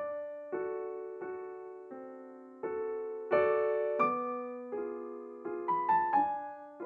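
Slow, gentle solo piano music: single notes and soft chords struck one after another, each ringing and fading before the next.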